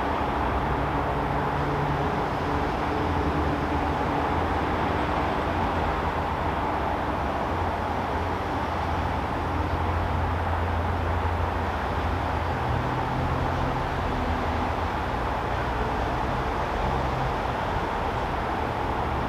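Steady outdoor background noise with a low rumble that swells and eases over several seconds, like distant traffic or a passing train.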